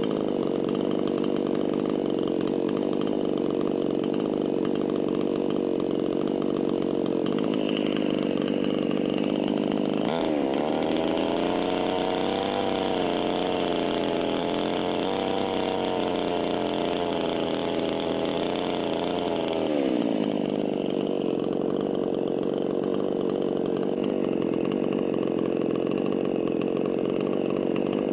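A small engine running steadily. It speeds up about a third of the way in, holds at the higher speed, then drops back to its earlier speed about two-thirds of the way through.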